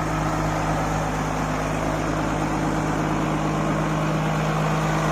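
IVECO 420 6x6 truck's diesel engine idling, a steady even hum.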